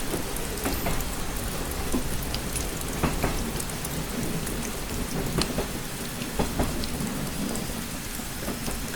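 Steady rain with scattered sharp drop taps, like rain hitting a window, over a constant low rumble.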